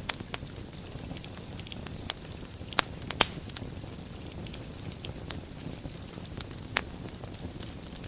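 Wood fire burning in a fireplace, a steady low rumble of flames with frequent sharp crackles and pops, the loudest pops about three seconds in and again near seven seconds.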